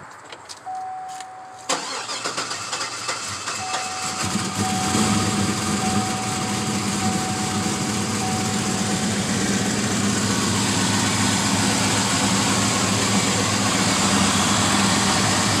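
Chevy Avalanche's swapped 6.2-litre LS V8 with a stage 4 BTR cam being started: the starter cranks, the engine fires a few seconds in and settles into a steady idle. A steady beeping tone, like a dash warning chime, sounds over the first half of the start.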